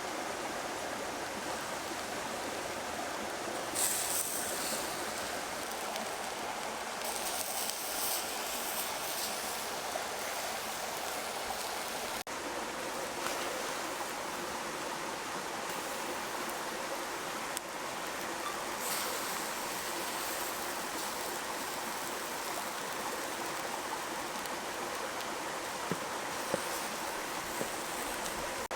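A steady rushing noise, with stretches of brighter high hiss that come and go, starting about four seconds in.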